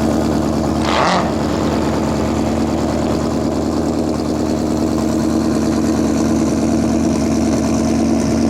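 Car engine running at a steady speed, a constant drone, with a short rushing noise about a second in.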